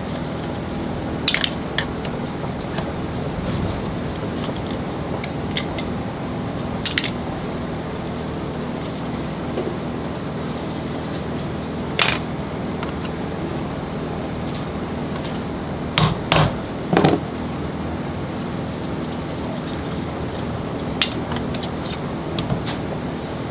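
Sharp metal clinks and knocks of tools and alternator parts being handled during disassembly, a few seconds apart, with the loudest cluster of three or four knocks a little past the middle, over a steady background hum.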